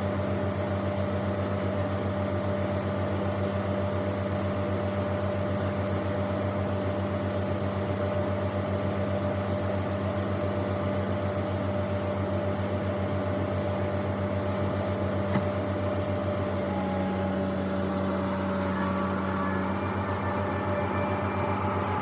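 A diesel engine running steadily at a constant speed, an even low hum with a fast regular pulse. A single light click about 15 seconds in.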